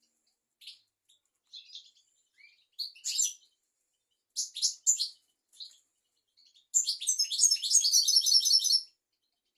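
European goldfinch singing high, twittering song: scattered short chirps and phrases, then a rapid run of notes for about two seconds near the end.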